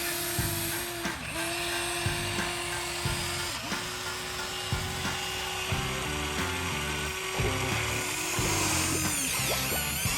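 Small electric motor of a remote-control construction model whining at a steady pitch, cutting out briefly and starting again a few times, over background music.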